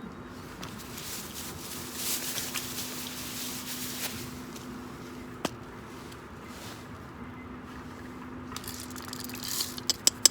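Small wood campfire crackling, with a cluster of sharp pops near the end.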